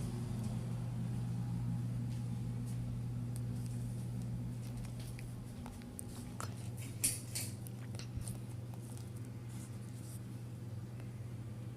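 Steady low hum that eases a little about six seconds in, with a few light clicks and taps just after.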